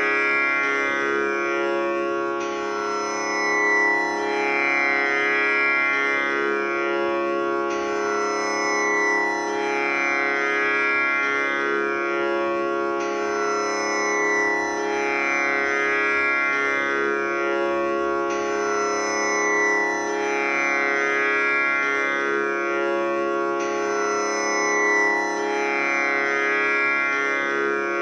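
Tanpura drone tuned to C#, its strings plucked in a steady repeating cycle that swells about every five seconds and sustains into one continuous, rich drone.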